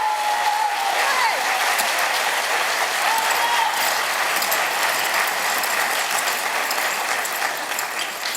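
Audience applauding, with a few voices cheering in the first few seconds.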